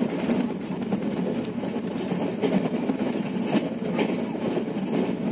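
Passenger train running at speed, heard from inside a coach: a steady rumble of wheels on rails, with scattered sharp clicks.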